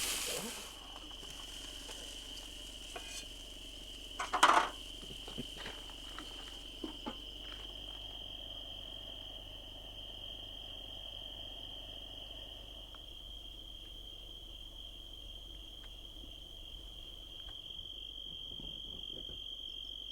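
Crickets chirping in a steady, continuous high trill. A few short clinks and knocks sound about three to seven seconds in, the loudest about four and a half seconds in.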